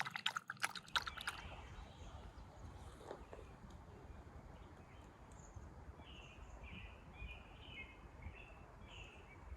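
A small dog lapping water for about the first second, then a bird chirping repeatedly, short calls over the last few seconds, above a steady low outdoor rumble.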